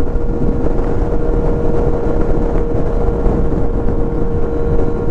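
2023 Kawasaki Z900's 948 cc inline-four engine running at a steady speed while riding, its pitch holding constant, over a dense rush of wind noise.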